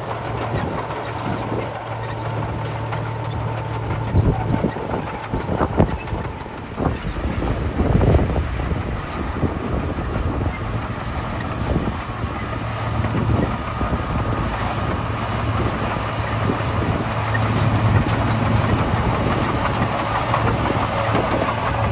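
Komatsu D41P crawler bulldozer working: the diesel engine runs steadily under load while the steel tracks clank. Several sharp knocks come in the first half, and the engine hum grows louder toward the end.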